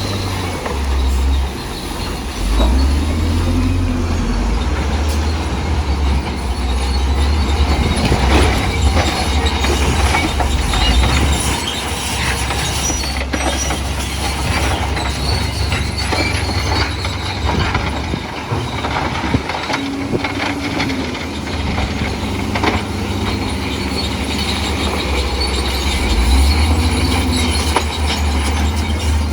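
Crawler bulldozer working: its diesel engine rumbles, swelling and easing under changing load, while its steel tracks knock and clank continuously.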